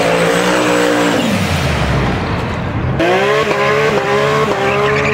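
A pickup truck's engine running, its revs dropping away about a second in; then a Porsche 911 GT3 RS's naturally aspirated flat-six held at high revs in a burnout, rear tyres spinning, easing off near the end.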